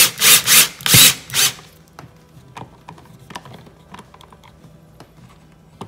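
Five quick, loud scraping strokes in the first second and a half, then scattered light clicks and taps: mechanical handling of a tool or hardware.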